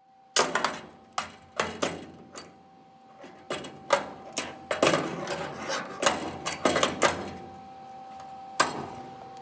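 Irregular series of sharp knocks and clicks, about fifteen in the first seven seconds and one more near the end, from tool work on a car body, with a faint steady hum underneath.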